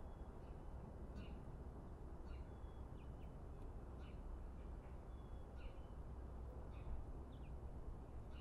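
Small birds chirping, short high calls about once a second, a few of them brief held whistles, over a steady low outdoor rumble.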